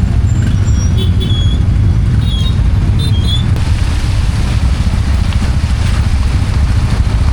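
A motorbike on the move: steady, loud engine and road rumble mixed with wind on the microphone. A few short high chirps come in the first half.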